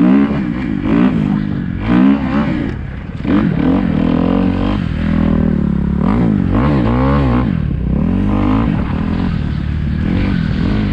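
Kawasaki KX250F dirt bike's single-cylinder four-stroke engine revving up and down over and over, with repeated sharp throttle blips, as the rider tries to lift the front wheel into a wheelie.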